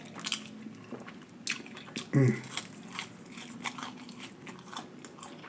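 A person chewing a mouthful of fast-food burger and french fries, with wet mouth sounds and many small crunchy clicks. A short hummed vocal sound comes about two seconds in.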